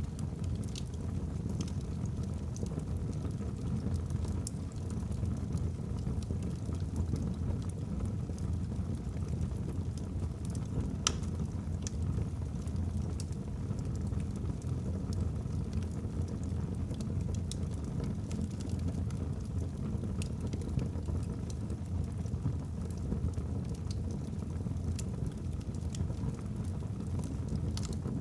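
Wood fire burning in a fireplace: a steady low rush of flame with scattered small crackles from the logs and one sharper pop about eleven seconds in.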